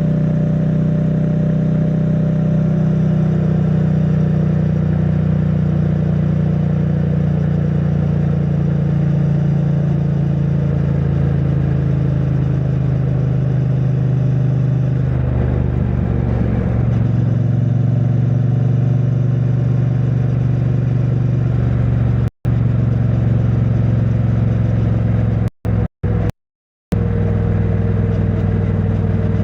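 2022 Triumph Bonneville T100's 900 cc parallel-twin running steadily under way through its stock exhaust, heard from a microphone in the rider's backpack. The note shifts briefly about halfway through. Near the end the sound cuts out completely for a moment, twice.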